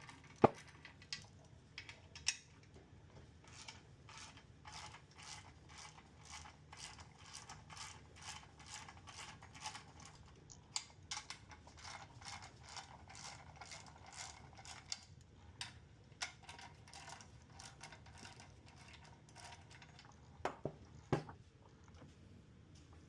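Hand ratchet clicking in a steady run as bolts between the engine and transmission bellhousing are backed out, with a few louder single knocks of metal near the start and near the end. The bolts are being loosened because the transmission is not settling fully onto the engine.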